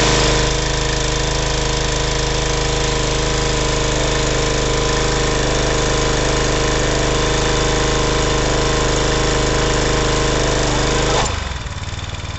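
Briggs & Stratton pressure washer engine running steadily under a loud, hissing spray; about eleven seconds in the sound suddenly drops to a quieter, lower running.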